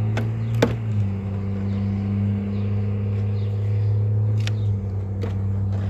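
Honeybees from an opened hive buzzing in a steady low hum. Sharp clicks of hive frames and tools knocking sound about half a second in and twice near the end.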